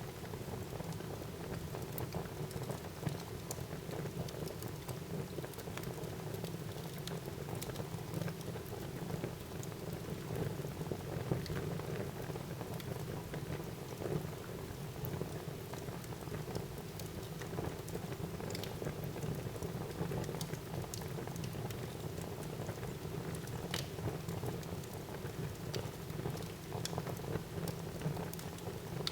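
Wood fire burning in a fireplace: a steady hiss and rush of flames with frequent small crackles and pops of the burning wood, and a few sharper snaps.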